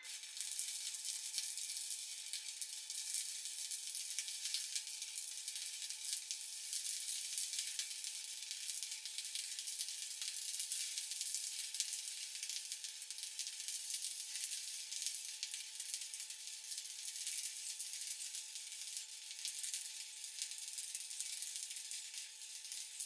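Stick (SMAW) welding arc burning steadily, a continuous crackling sizzle that starts abruptly as the arc is struck. A faint steady hum sits underneath.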